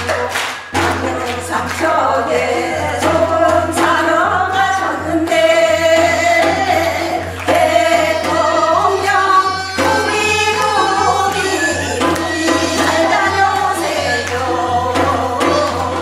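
Singers performing Gyeonggi hwimori japga, a fast Korean folk narrative song, with sharp percussive strokes near the start and end and a steady low hum underneath.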